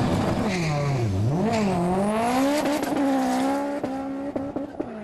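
A sports car's engine launching off the drag-strip start line. The revs sag about a second in as the drive takes up, then climb hard and level off as the car pulls away, the sound fading. A few sharp clicks come near the end.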